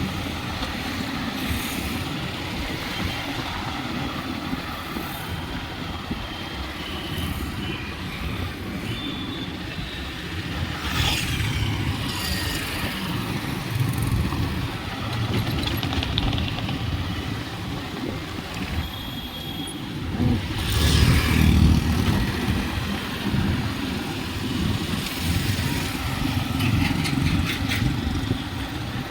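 Rainy outdoor ambience: a steady rumble with road vehicles passing by. The loudest pass comes about two-thirds of the way through.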